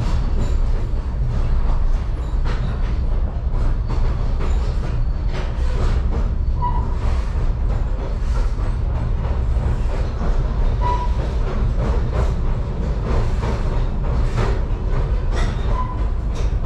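Excursion train's passenger car rolling along the track: a steady low rumble of the wheels and running gear, with faint clicks and a few brief high wheel squeaks.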